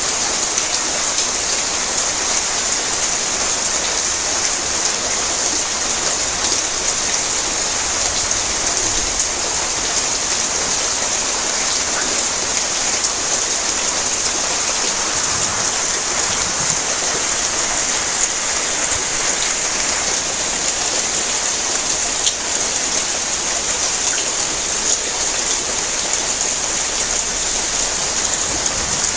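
Heavy rain drumming steadily on a tin roof: a dense, even hiss of drops with many small ticks of individual drops striking the metal.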